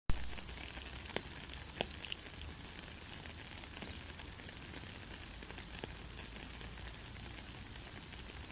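Steady white-noise hiss, like frying or light static, with faint scattered crackles. It opens with a sharp click, and small crackles come about one and two seconds in.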